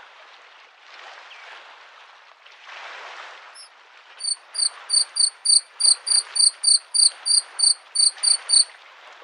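Bluethroat singing a run of about fifteen short, high, rapidly repeated notes, about three a second, starting about four seconds in. Small lake waves wash on the shore in soft swells underneath.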